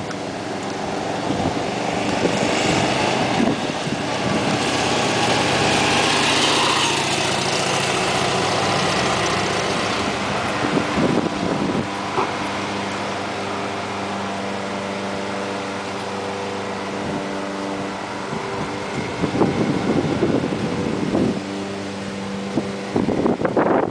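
Motorcycle engine, the S&S 93-inch stroker V-twin of a rebuilt 1971 Harley-Davidson FLH, running: a rush of engine and wind noise swells to a peak about six seconds in. From about ten seconds in it settles into a steady, even drone. A few sharp knocks come near the end.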